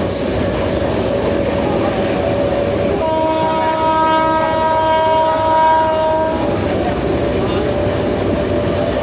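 WAP-7 electric locomotive running, with a steady whine from its traction motors over the rumble of wheels on rail. About three seconds in, a multi-tone train horn sounds for about three seconds.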